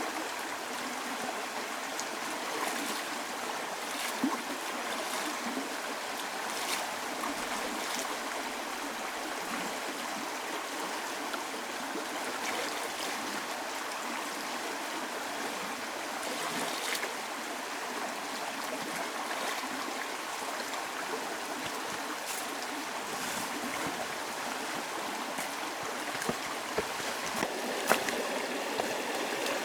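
Steady rushing of running water, like a forest stream, with scattered small clicks and taps over it, a few sharper ones near the end.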